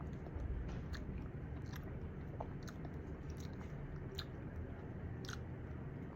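Mouth sounds of chewing close to the microphone, with soft clicks scattered about once a second: a mouthful of edible bird's nest drink with its jelly-like pieces being chewed.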